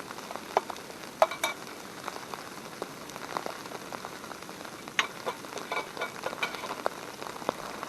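Food frying in a small pan: a steady sizzle with sharp pops and spatters scattered through it, the loudest about a second in and around five seconds in.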